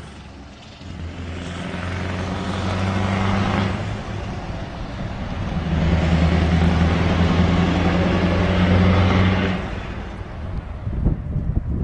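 Scania V8 diesel truck engine running with a steady deep drone, swelling in two stretches and dropping away near the end, where low wind rumble on the microphone takes over.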